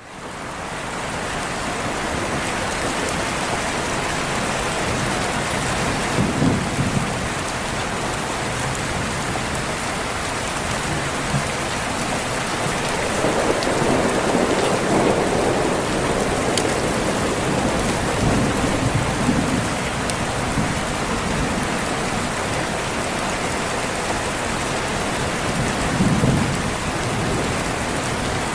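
Steady rain, fading in at the start, with several low rolls of thunder through it; the longest and broadest rumble comes about halfway.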